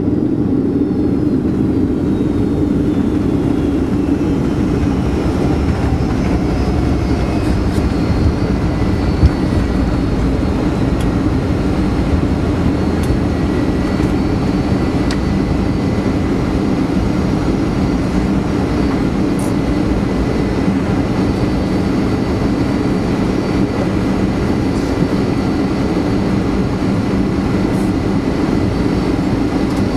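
Cabin noise inside a Boeing 757 around landing: a steady, loud rumble from the engines and airframe, with a faint whine that falls in pitch over the first several seconds. There is a single brief thump about nine seconds in.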